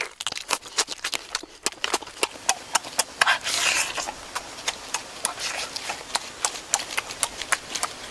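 Open-mouthed chewing while eating cooked lobster: an irregular run of wet mouth clicks and smacks, several a second.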